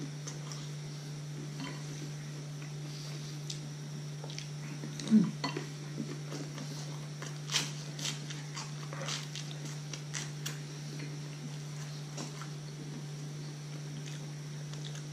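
Chewing of lightly toasted white sandwich bread (shokupan), with scattered short crunches and clicks from the crisp crust, over a steady low hum.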